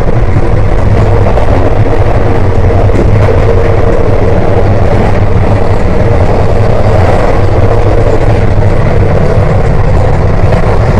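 Passenger train running at speed, a loud, steady rumble and rush of noise with a low hum underneath.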